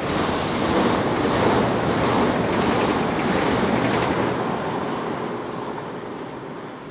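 Electric multiple-unit passenger train passing close at speed: a rush of wheel and air noise that comes on suddenly, holds for a few seconds and then fades away.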